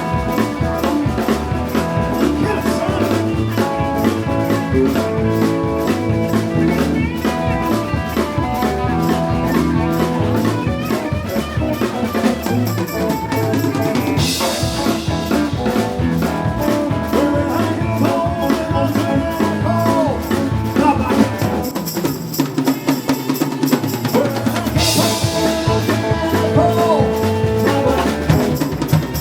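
A live band playing an instrumental stretch over a steady drum-kit beat, with a cymbal crash about halfway through and another near the end. The bass drops out briefly around three quarters of the way in.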